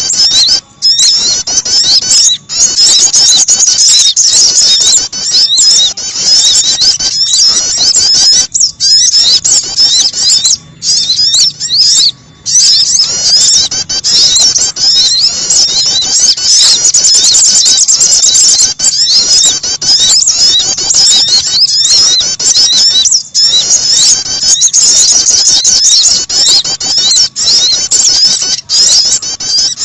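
Recorded lure calls of small songbirds, sogon and prenjak, played loudly and continuously: a dense stream of rapid high chirps and trills with a few brief breaks.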